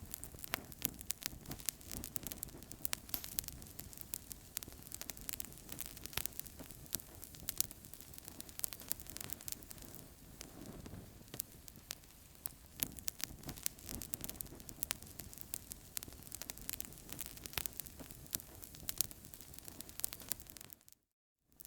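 Wood fire in a fireplace crackling: a steady hiss of flames with frequent irregular sharp pops and snaps. The sound drops out for about half a second near the end.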